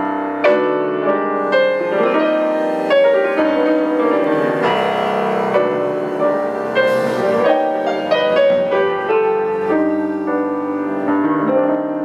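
Piano playing a slow introduction, a sequence of sustained chords with a melody moving over them.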